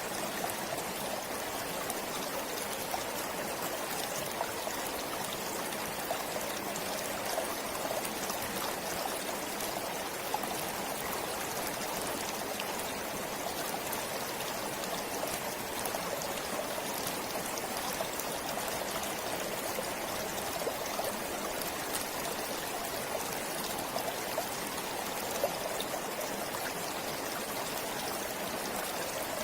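Forest stream flowing steadily over rocks, an even rushing with small splashes and trickles.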